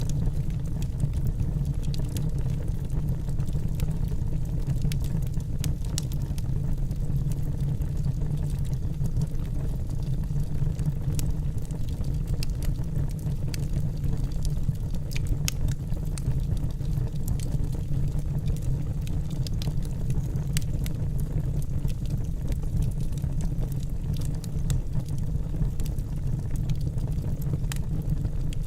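Wood fire burning in a fireplace: a steady low roar of the flames with frequent small crackles and pops of the logs.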